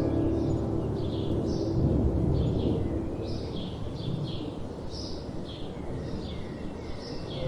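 Soft birdsong, short high chirps repeating about twice a second, over a steady low rush of gentle wind. The last sustained notes of ambient music fade out just after the start.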